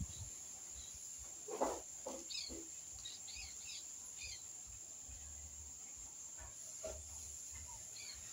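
Faint rural outdoor ambience: a small bird chirping several times in quick succession, with a brief lower three-note sound about a second and a half in, over a steady high-pitched drone.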